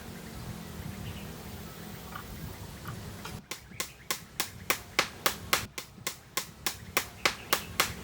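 A hand tool striking repeatedly: sharp, evenly spaced knocks, about three a second, starting about three and a half seconds in over a faint steady low background.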